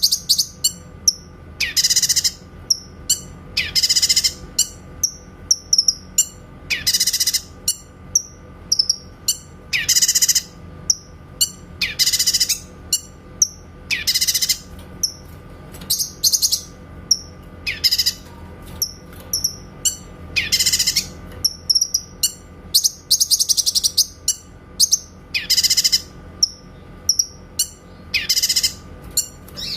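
Cucak kinoy singing: loud, clear, high calls repeated about every two seconds, with softer short chirps between them and a quick rapid run of notes near the end. A faint steady low hum sits underneath.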